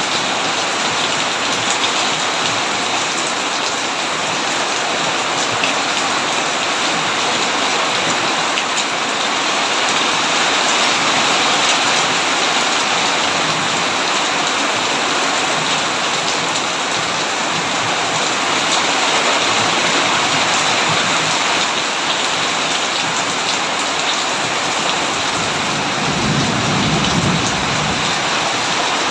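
Heavy rain falling on a tin roof: a steady hiss with scattered sharp drop taps. A brief low rumble of thunder swells up near the end.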